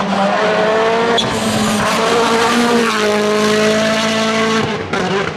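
Rally car engine running at high revs on a stage, loud and close. The engine note breaks off briefly twice, about a second in and near three seconds, then dips near the end.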